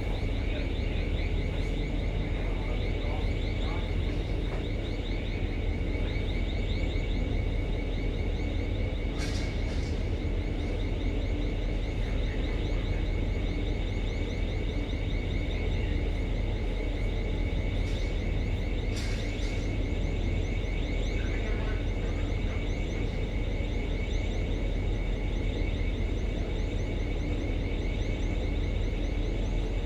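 A ship's machinery running steadily: a low rumble with a constant high-pitched whine over it, and a few faint knocks.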